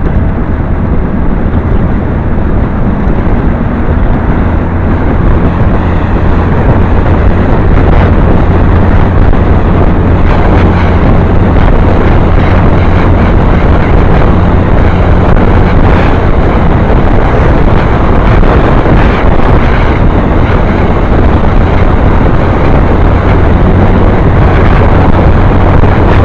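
Motorbike engine running at a steady drone while riding, with wind rushing over the microphone; the sound grows louder over the first several seconds, then holds steady.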